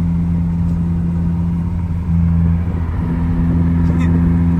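A car engine running steadily at low revs, with a deep, even hum that shifts only slightly about two seconds in.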